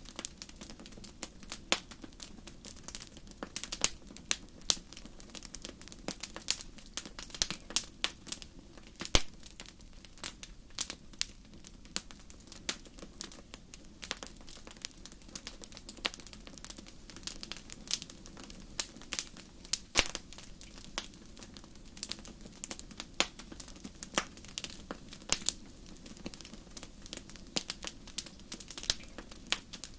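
Wood fire in a fireplace crackling, with irregular sharp pops and snaps over a low, steady rumble of the flames; a few louder pops stand out, one about nine seconds in and one about twenty seconds in.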